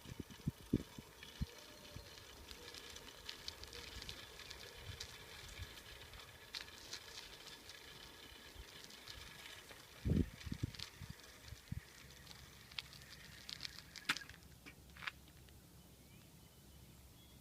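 Bicycle riding along: scattered clicks and rattles from the bike, with a cluster of heavy knocks about ten seconds in, as over a bump. It goes quieter for the last few seconds.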